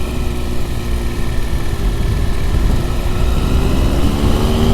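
Motorcycle engine running under way, with wind rush over a low rumble. The engine note sags slightly, then climbs near the end as the bike accelerates.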